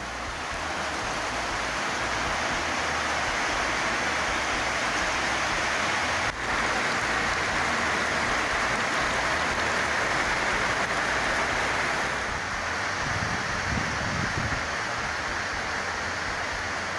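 Heavy rain pouring down in a steady, dense hiss, with a brief break about six seconds in.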